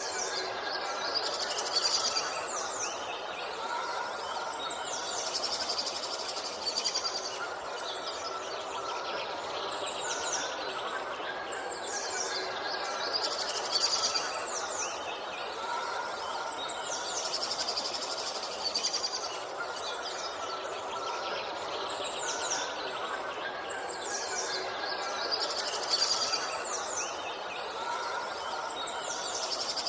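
Birds chirping and singing, with clusters of quick, high, falling calls every couple of seconds over a steady background hiss.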